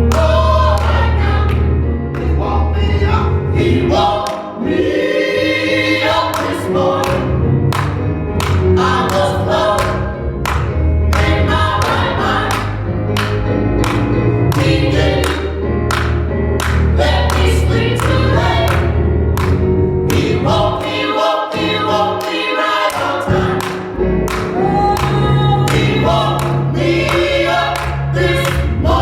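Church choir singing a gospel song with band accompaniment: a steady beat with strong bass and sharp percussive hits.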